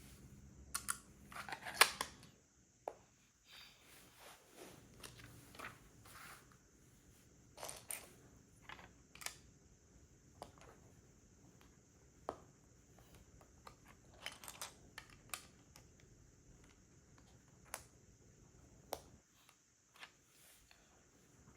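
Plastic LEGO pieces clicking and rattling as they are handled and pressed together: scattered sharp clicks with a few quick clusters, the loudest about two seconds in.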